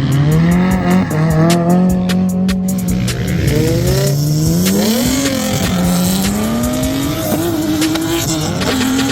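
Drift car engine revving up and down with the throttle through a slide, with tires squealing.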